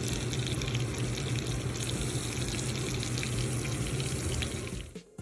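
Breaded chicken cutlets sizzling in shallow oil in a stainless steel frying pan: a steady, dense crackling hiss with a low hum underneath. It cuts off abruptly just before the end.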